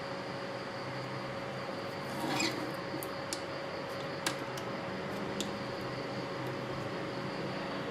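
A few light clicks and one short scrape, from small parts or tools being handled, over a steady hum with a single constant tone.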